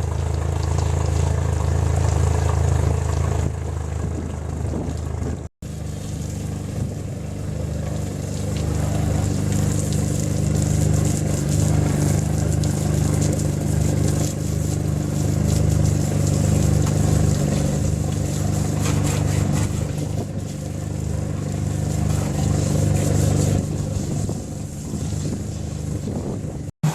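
A boat's outboard engine running steadily. The sound drops out for an instant about five and a half seconds in and again near the end.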